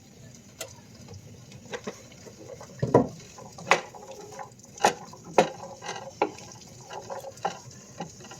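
Diced squash and onion frying in oil in a hot pan: irregular sharp pops and spatters over a low hiss, loud enough to throw bits of food out of the pan.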